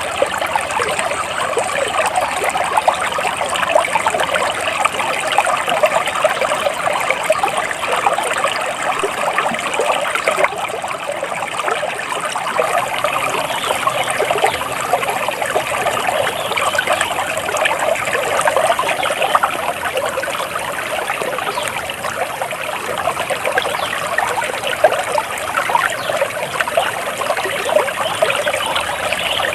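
Flowing water trickling and bubbling steadily, like a small stream.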